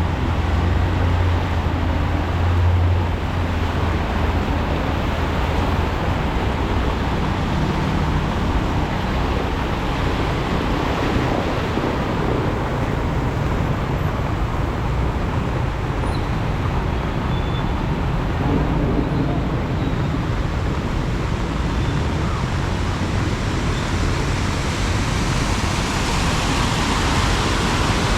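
Heavy rain falling steadily in a continuous hiss, mixed with road traffic; a vehicle engine's low hum is strongest in the first few seconds.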